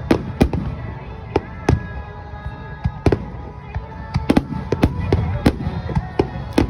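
Aerial fireworks bursting in quick, irregular succession: sharp bangs and crackles, a dozen or more across the few seconds, over a continuous low rumble.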